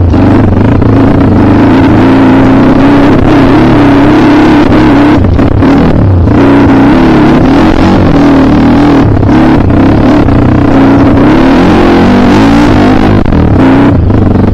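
Kawasaki KLX trail bike's single-cylinder engine running hard under load, its pitch wavering up and down with the throttle, with a few brief drops as the throttle is eased.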